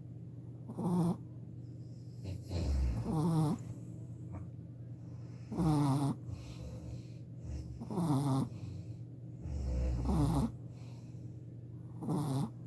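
A Shih Tzu puppy snoring in its sleep: six snores about two seconds apart, each a short pitched, squeaky sound that falls in pitch.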